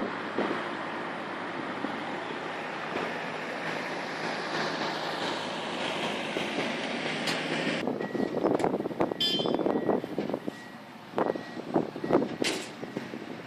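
Tractor engine running hard as it pulls a heavy weight at a tractor pull, a steady noisy drone that swells a little midway. About eight seconds in the sound changes abruptly to quieter, irregular knocks and clatter.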